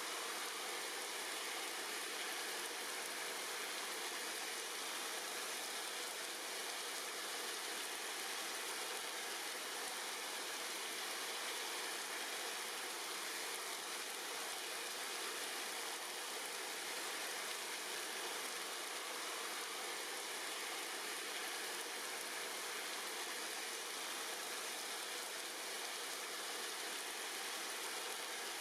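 Steady rain falling on tree leaves: an even, unbroken hiss with no single drops standing out.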